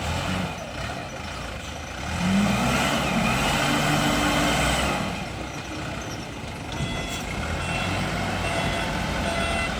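SYZG ZL932 wheel loader's diesel engine revving up about two seconds in and running hard for a few seconds as the machine works, then settling. From about seven seconds a reversing alarm beeps repeatedly.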